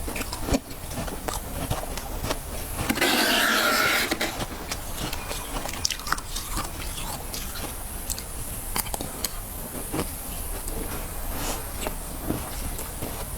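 Frost scraped from the inside of a chest freezer and crunched between the teeth: a run of small crisp crackles and crunches, with a louder, rougher stretch lasting about a second about three seconds in.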